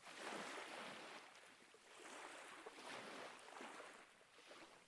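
Faint ocean waves washing in, a soft hiss of surf that swells and fades several times.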